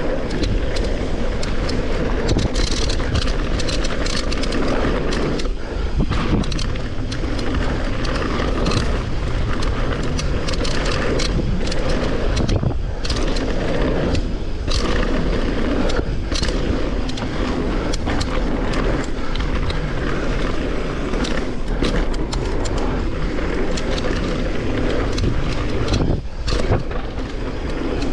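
Mountain bike riding down a dirt trail: a steady loud rush of wind on the microphone with tyres rolling over the ground, and frequent short clatters and knocks from the bike going over bumps.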